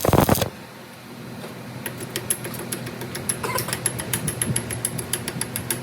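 A workshop machine running with a low hum and a rapid, even ticking that starts about two seconds in, after a short loud burst at the very start.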